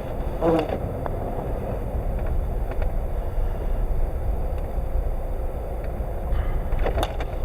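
Steady low rumble of a car driving on snowy city streets, heard from inside the cabin: engine and tyre noise.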